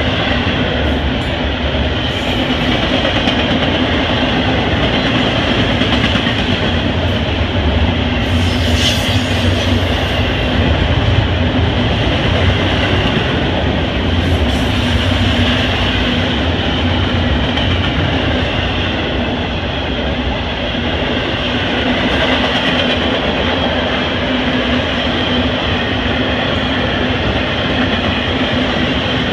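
CSX double-stack intermodal freight cars rolling past: a steady rumble and clatter of steel wheels on the rails. Two brief high-pitched screeches come about nine and fifteen seconds in.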